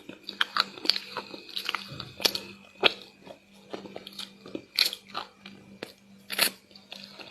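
Crunching and chewing of crispy, crumbly small chocolate chunks in chocolate paste: a quick irregular run of sharp crunches, a few of them much louder than the rest.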